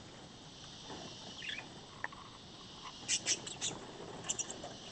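Birds giving short, high chirps: a faint one a second and a half in, then a quick run of three or four chirps about three seconds in and a few more just after four seconds.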